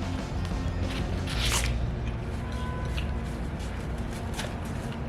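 Close-up eating sounds: wet chewing and mouth clicks from a person eating, with one louder, noisier smack or crunch about a second and a half in, over a steady low hum.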